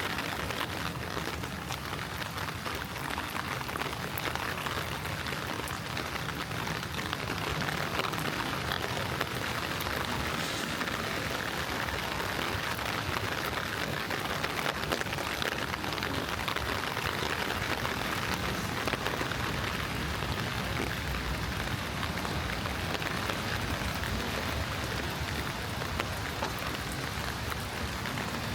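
Steady rain falling, a continuous hiss flecked with many small drop ticks.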